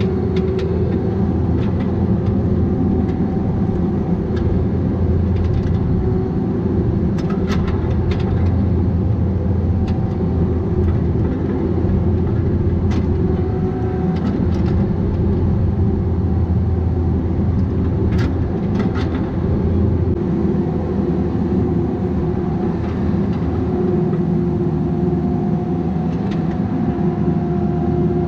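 Bobcat 337G mini excavator's diesel engine running steadily while working, with a few sharp clanks, a cluster about seven seconds in and another about eighteen seconds in.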